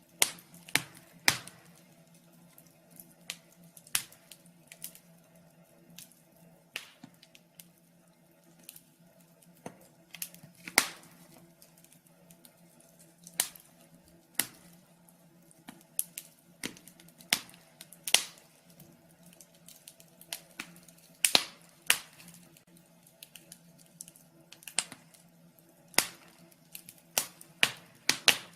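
Wood fire crackling in a fireplace: irregular sharp pops and snaps, uneven in loudness, over a faint steady hum.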